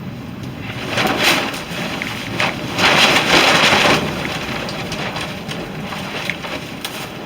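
Wind buffeting the microphone in rushing gusts, strongest about three seconds in, over the scattered crackling of a burning tinder torch bundle.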